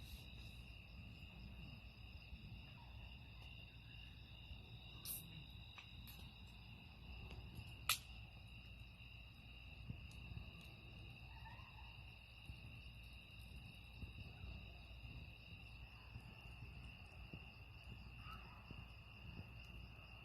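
Crickets chirring steadily in several unbroken high tones, with a faint low rumble beneath. A few sharp snaps cut through, the loudest about eight seconds in.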